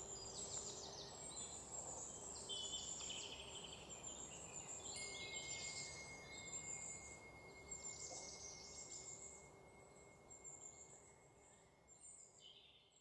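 Several birds singing in overlapping chirps and trills over a faint background hiss. A thin, steady high tone joins about five seconds in, and the whole sound fades out near the end.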